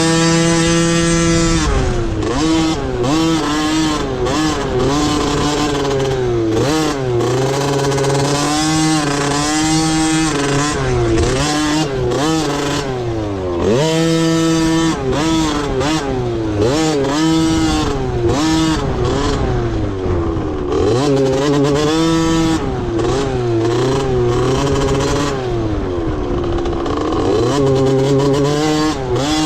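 Dirt bike engine running hard in a motocross race, its pitch repeatedly climbing, holding and dropping back as the rider shifts gears and rolls on and off the throttle.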